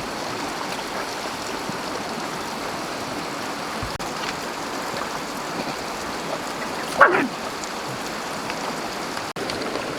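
Steady rush of a flowing stream. About seven seconds in, one short, loud cry falls sharply in pitch.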